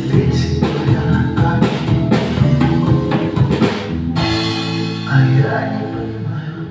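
Instrumental close of a song: guitar over a steady drum beat, the drums dropping out about four seconds in and leaving held chords.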